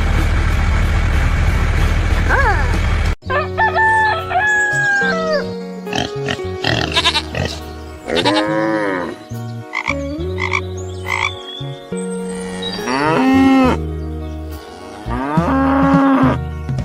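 A motor running steadily, cut off abruptly about three seconds in, followed by a string of animal calls that swell and fall in pitch, over steady low notes.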